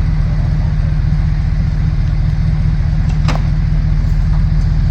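Vehicle engine running steadily with a deep low rumble, and a single sharp click about three seconds in.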